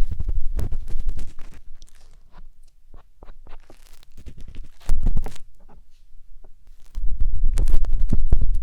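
Matchstick scraping and rubbing inside the silicone ear of a 3Dio binaural microphone, giving close crackling scratches with a heavy rumble. It comes in bursts: dense at first, sparse and quieter in the middle with one short burst about five seconds in, then dense again near the end.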